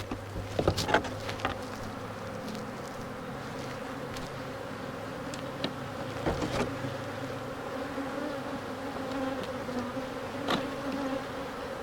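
Honeybees from an opened, disturbed hive flying around in a steady buzzing hum. A few short knocks sound in the first second or so, again around the middle and once near the end.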